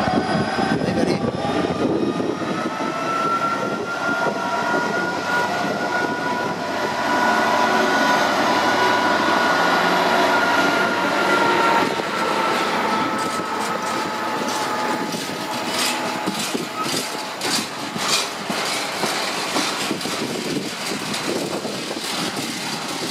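Class 66 diesel freight locomotive passing slowly with its engine running, and a long high whine over the first half. Its train of flat wagons then rolls past, the wheels clicking sharply over the rail joints.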